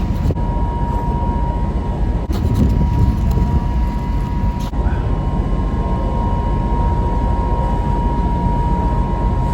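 Steady low rumble of a passenger ferry's engines under way, with a thin steady whine above it.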